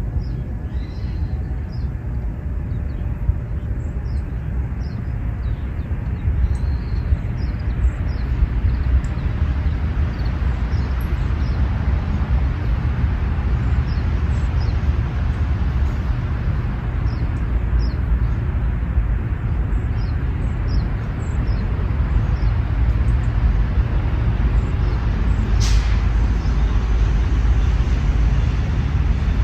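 Wind rumbling on the microphone, with small birds chirping in short high calls throughout and one sharp call or click near the end.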